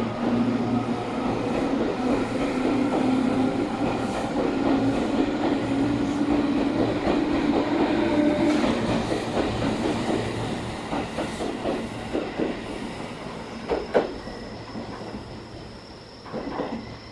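Electric train running along the station platform and moving away. Its motor hum and wheel noise are steady at first, then fade after about ten seconds, with wheels clicking over rail joints near the end.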